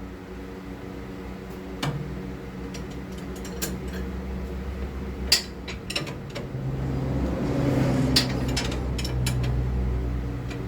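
Scattered metal clinks and knocks of a pry bar working a 2003 Saturn Vue's lower control arm loose from the ball joint, over a steady low hum.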